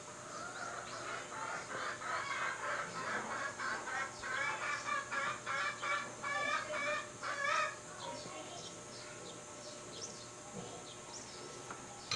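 A bird calling: a long run of short, quick calls repeated several times a second, which stops about eight seconds in.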